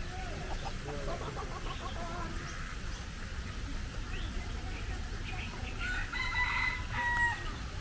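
Birds calling in an aviary: many short chirps and calls, then about six seconds in one loud, held call of just over a second from a large bird.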